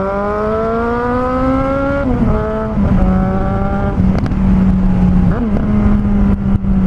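Suzuki Bandit 1250's inline-four engine through a straight-pipe exhaust with no muffler. The pitch climbs for about two seconds, dips, then holds steady, like a rider accelerating, shifting up and cruising. A few sharp crackles come near the end.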